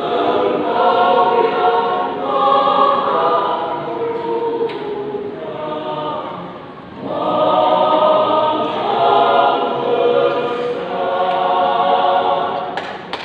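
Choir singing in two phrases, with a short pause between them about six and a half seconds in.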